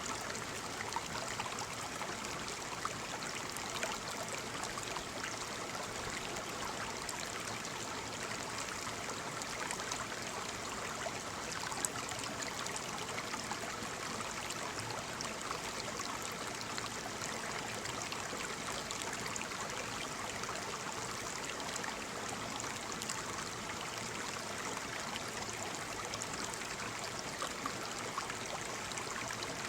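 Waterfall: steady rushing and splashing of falling water, with a fine crackle of droplets.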